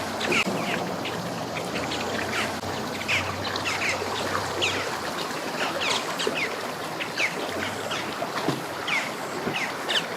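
Birds chirping over and over, short falling notes coming a few times a second, over a steady low hum and outdoor background noise.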